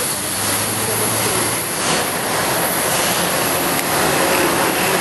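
Electric commuter train running on the line: a steady rushing rumble.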